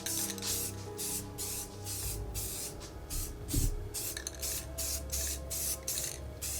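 Paint being sprayed onto costume fabric in quick short hissing bursts, about two to three a second, with background music underneath.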